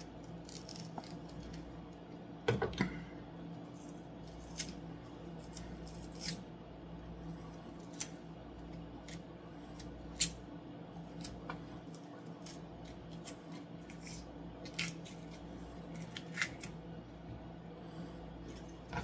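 Kitchen knife cutting an onion on a cutting board: irregular, widely spaced chops and clicks of the blade on the board, over a steady low hum.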